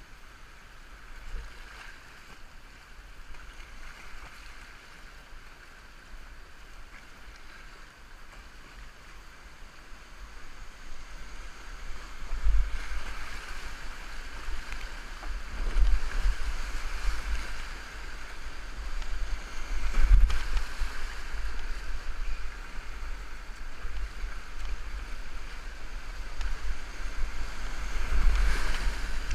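River water rushing and splashing around a whitewater kayak, heard muffled through a waterproof camera case, with low rumbling bumps. It gets louder about twelve seconds in.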